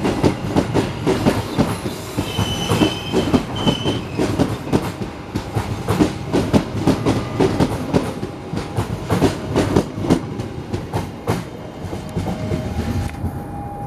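Passenger train rolling past close by, its wheels clacking rapidly over the rail joints, with a brief high wheel squeal about three seconds in. The clacking dies away near the end as the last coach passes.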